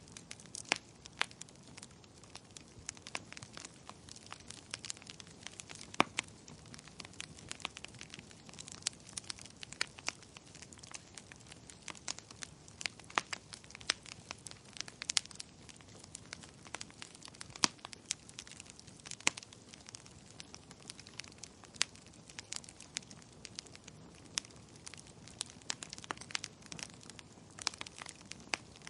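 Wood fire crackling steadily, with frequent sharp pops and snaps scattered irregularly over a soft, continuous crackle.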